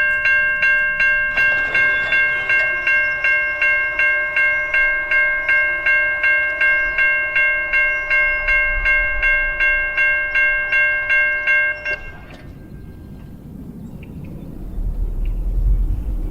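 Railroad grade-crossing warning bell ringing rapidly, about three strikes a second, then cutting off about twelve seconds in. A low rumble rises near the end.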